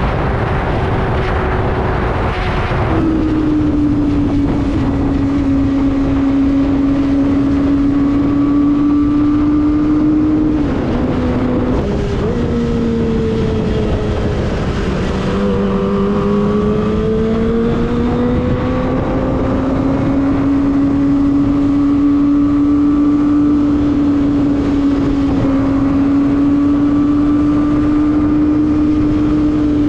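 Kawasaki ZX-25R's 250 cc inline-four running at high revs while riding, with wind rush on the microphone. The engine note drops about three seconds in, dips twice near the middle, then climbs slowly back and holds steady.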